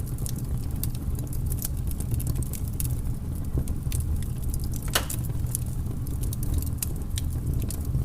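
Wood fire crackling, with irregular small pops over a steady low rumble and one louder pop about five seconds in.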